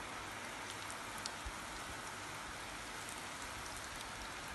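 Oats-crumbed chicken pieces sizzling in hot oil in a pan: a steady frying hiss with scattered crackles and a couple of sharper pops about a second and a half in.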